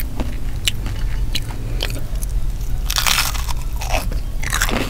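Close-miked mouth sounds of eating breaded deep-fried fried rice: chewing with sharp crackles and crunches, louder about three seconds in, over a low steady hum.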